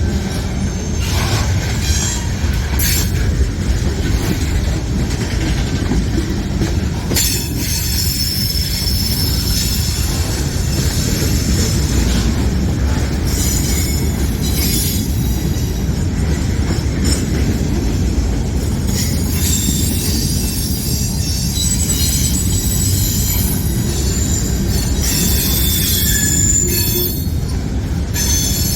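Freight train cars rolling past: a steady low rumble with short clicks and scattered high-pitched wheel squeals.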